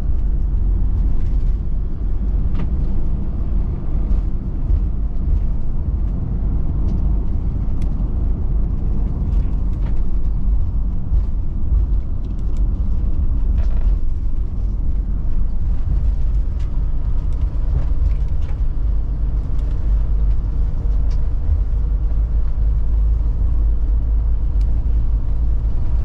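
Motorhome cab interior while driving: steady engine and road rumble, heaviest in the low end, with faint occasional ticks and rattles.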